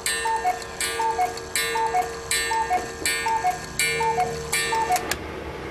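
Cuckoo clock calling 'cu-coo' over and over, a high note dropping to a lower one about once every three-quarters of a second, each call with a sharp click. The calls stop about five seconds in.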